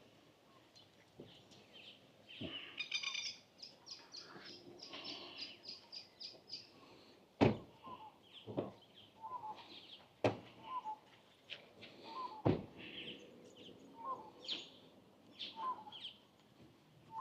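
Birds calling and chirping: a fast run of high chirps about three seconds in, then a short call repeated every second or so. Four sharp knocks break in near the middle.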